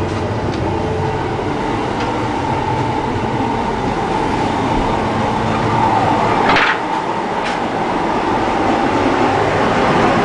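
Running noise of a KA Bima passenger train heard from inside a coach's vestibule: a steady rumble and rattle of the car on the track, with a brief hiss about six and a half seconds in.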